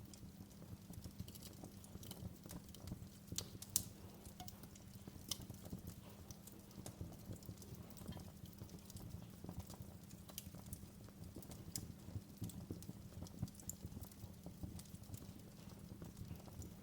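Wood fire in a fireplace crackling: irregular sharp pops and snaps over a low steady rumble, with one louder pop a little under four seconds in.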